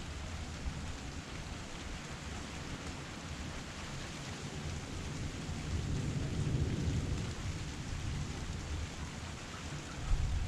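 Heavy rain falling steadily, an even hiss, with a low rumble swelling about six seconds in and a short low thump near the end.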